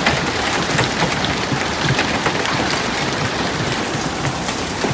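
Heavy hail with rain pelting down: a steady rush dotted with many sharp, separate impacts of hailstones striking surfaces.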